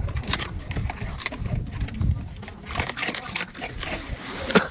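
Dogs eating, with irregular crunching, smacking and clicking as they chew, and one sharp knock near the end.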